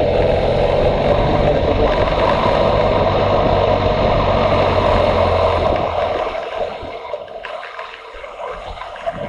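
Motorcycle engine running steadily under wind noise while riding. About six seconds in, the engine note drops away and only quieter wind noise is left.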